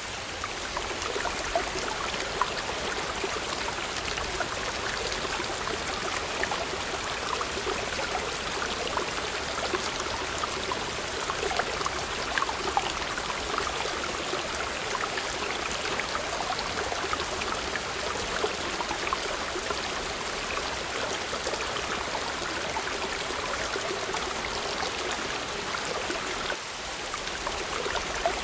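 Waterfall: a steady rush of falling, running water, flecked with small splashes throughout.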